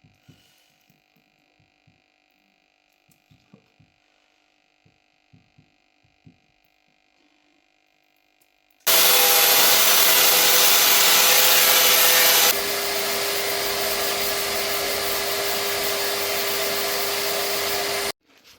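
A handheld electric power tool switches on about nine seconds in and runs with a steady rushing noise, drops to a lower level a few seconds later, and cuts off sharply just before the end. Before it, only faint small clicks of handling.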